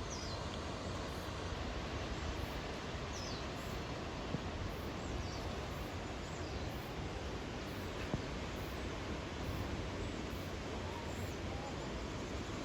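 Steady outdoor rushing noise with a small bird calling over it in short, high, downward-sliding chirps every second or so.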